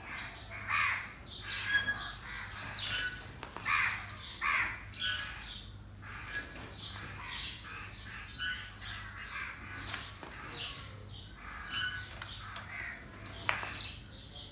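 Birds calling: short, harsh calls repeated irregularly, a second or two apart, with thinner, higher notes between them.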